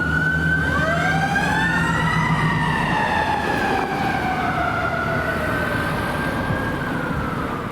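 Sirens of a fire engine and a rescue unit responding, two or more slow rising-and-falling wails overlapping, over the low rumble of the trucks' engines.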